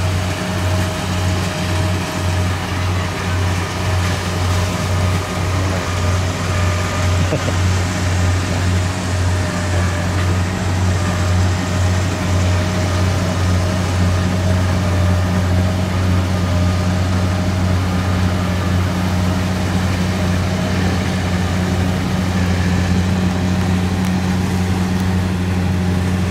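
Kubota DC70 rice combine harvester running steadily under load. Its diesel engine drones continuously, with a thin whine from the machinery above it.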